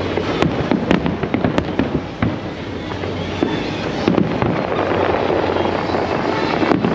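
Large aerial fireworks display: a few sharp bangs, spaced irregularly, over continuous crackling.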